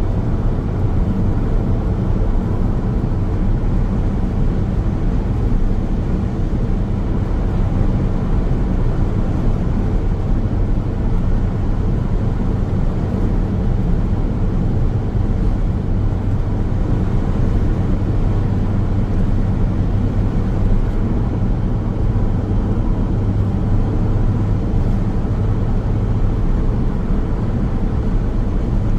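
Car driving along a highway: a steady road rumble of tyres and engine, with a low hum.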